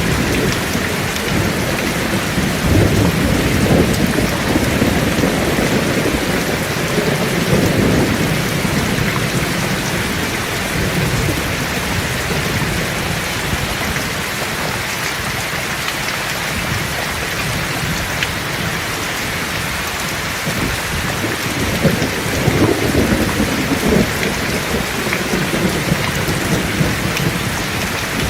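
Heavy rain falling steadily in a thunderstorm, with rolling thunder rumbling twice, early on and again in the second half.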